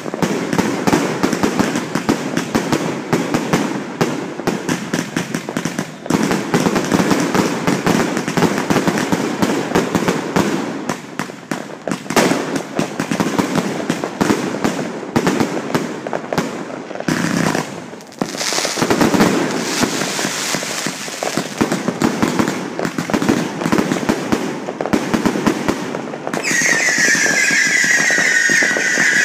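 Fireworks going off: a dense, rapid crackle of many pops and bangs. Near the end a loud, steady high whistle starts and slowly sinks in pitch.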